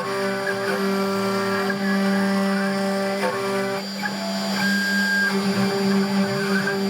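SainSMART Genmitsu PROVerXL 6050 Plus CNC router carving: a steady spindle whine with the stepper motors' tones over it. The tones change about four seconds in as the machine changes its moves.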